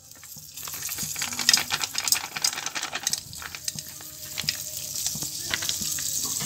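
Fat-coated ready-made popcorn kernels sizzling and crackling in a hot steel frying pan, a dense patter of small crackles that grows steadily louder as the pan heats; the kernels are not yet popping.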